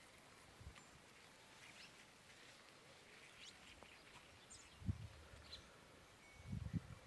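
Faint, scattered bird chirps over quiet outdoor background noise, with a couple of low thumps near the end.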